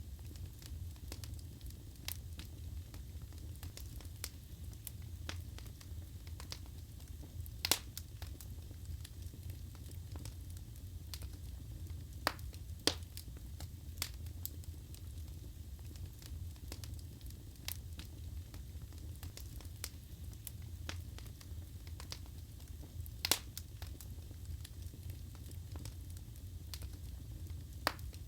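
Wood fire crackling in a fireplace: a steady low rumble of burning with frequent sharp pops and snaps, a few of them louder than the rest.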